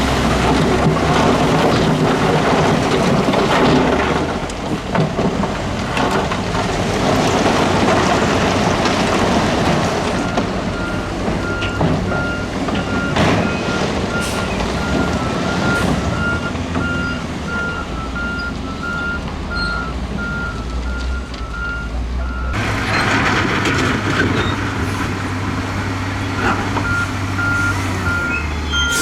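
Diesel earthmoving machinery running with a deep engine rumble, and a reversing alarm beeping at an even pace from about a third of the way in. About three-quarters through, the engine sound changes abruptly and the rumble gets heavier.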